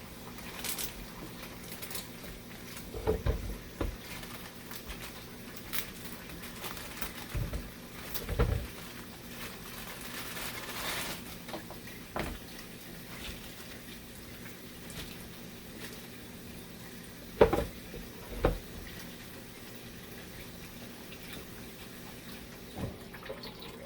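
Parts of a plastic humidifier being handled and set in place: scattered knocks and clicks, the loudest about two-thirds of the way through. Under them is a steady faint watery hiss and hum.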